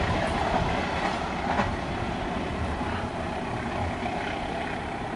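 Argo Wilis passenger train rolling past, its wheels clattering rhythmically over the rail joints in a steady rumble that gets a little quieter.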